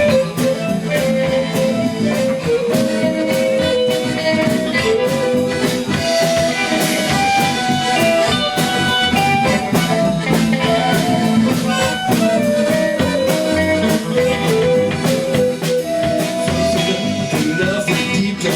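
A rock band plays an instrumental break between sung lines: a guitar melody over drum kit and bass.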